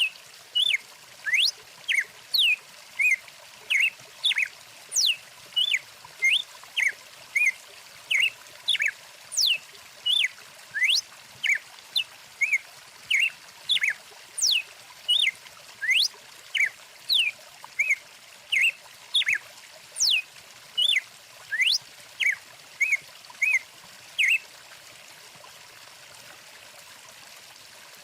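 Small songbirds chirping, a quick run of short chirps and sweeping whistles about two a second, over a steady running stream. The birdsong stops near the end, leaving only the water.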